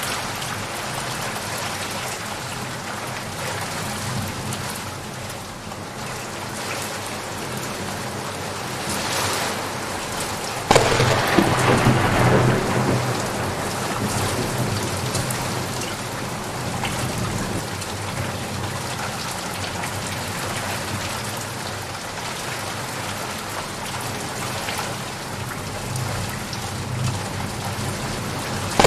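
Steady rain falling, with a sudden crack of thunder about ten seconds in that rumbles on for a few seconds before the rain alone carries on.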